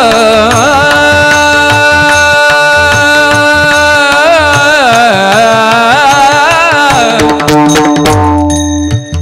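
Devotional kirtan singing: a voice holds long, wavering, ornamented notes over a steady drone, with tabla and pakhawaj drumming underneath. The singing eases off briefly near the end.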